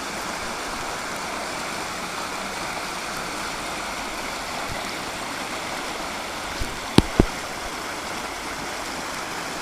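River water rushing steadily. Two sharp knocks come close together about seven seconds in.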